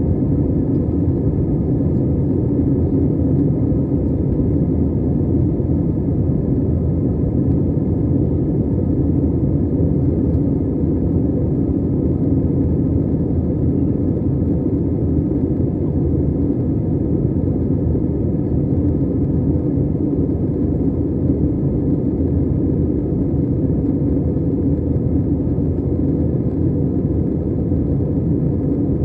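Airbus A320 running at steady power: an even, loud rumble of jet engines and rushing air, with no change in pitch or level throughout.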